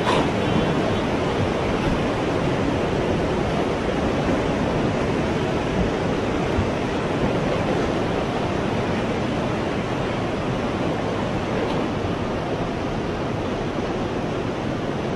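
Steady rushing noise of surging floodwater, easing slightly toward the end.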